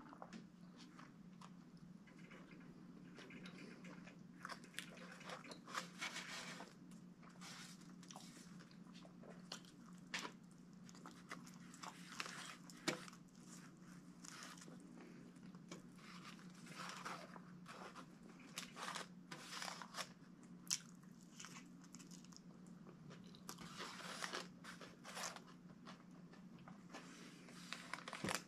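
A man biting into and chewing a Subway sandwich close to the microphone: irregular crunchy bites and wet chewing, with a steady low hum underneath.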